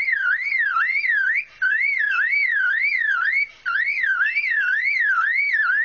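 Superb lyrebird mimicking a car alarm: a loud whooping tone that sweeps up and down about twice a second. It breaks off briefly twice.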